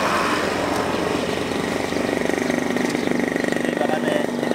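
Motorcycle engine idling steadily, with a thin high whine joining about halfway through.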